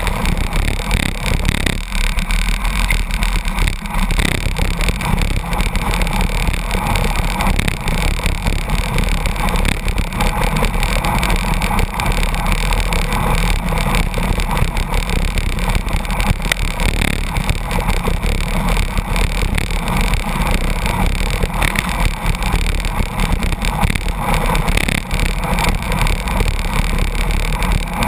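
Loud, steady rush of wind and road noise from a road bicycle at speed, tucked in close behind a truck in its slipstream. The truck's engine and tyres blend with wind buffeting the microphone.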